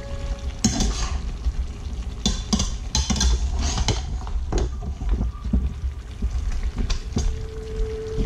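A metal fork stirring chunks of lamb, potatoes and vegetables in a stainless steel pot, with irregular clinks and scrapes against the pot.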